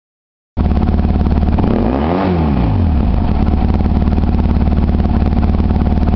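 Yamaha XTZ750 Super Ténéré's parallel-twin engine. It cuts in abruptly about half a second in and is revved once about two seconds in, the pitch rising and falling back, then settles to a steady idle as the throttle is rolled off.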